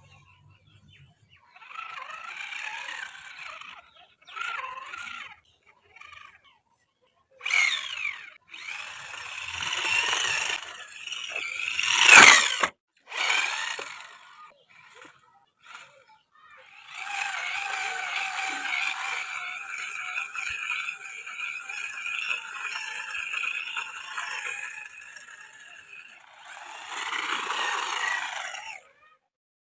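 Brushless electric motor of a homemade RC car whining in bursts, its pitch sliding up and down as it speeds up and slows, then running steadily for several seconds before one last short burst.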